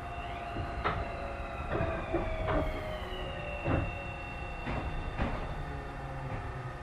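Interior running sound of a Tobu 30000 series electric multiple unit: the traction equipment whines in high tones that slowly fall in pitch over a low rumble, while the wheels clack over rail joints about six times.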